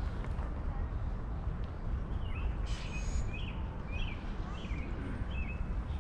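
A bird chirping about five times in a row, short high chirps a little over half a second apart, over a steady low outdoor rumble.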